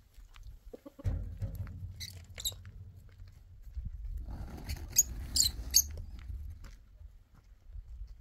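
Short high-pitched squeaks from a small animal, two near the start and a quick run of three around the middle, over rustling and scuffling.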